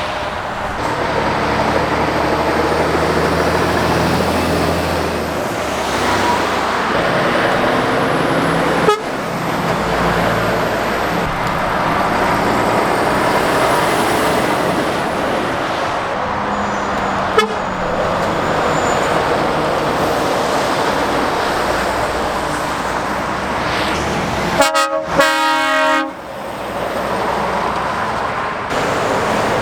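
Heavy lorries and other traffic passing close by on a busy main road, engines running and tyres on tarmac in a continuous rush that swells as each vehicle goes by. About 25 seconds in a vehicle horn sounds once, loudly, for about a second.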